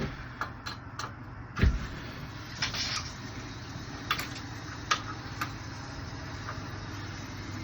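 Scattered clicks and knocks of hand work on a backflow preventer's fittings and test-kit adapters, with one heavier thump about a second and a half in, over a steady low hum.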